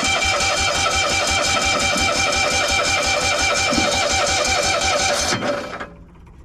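Cushman's engine being cranked over by its electric starter on a cold start with the choke on: a steady starter whine over an even chugging of about five beats a second, without the engine catching. The cranking stops about five and a half seconds in.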